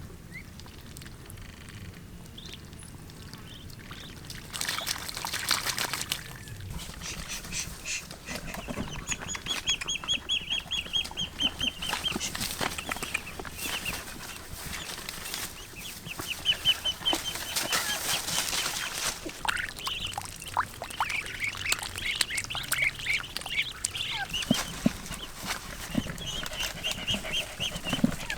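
Ducks calling in quick runs of repeated notes, several times over, with scattered clicks and knocks.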